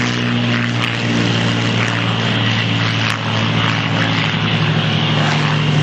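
A Hawker Hurricane's Rolls-Royce Merlin V12 piston engine running at power in a flypast: a loud, steady, deep drone.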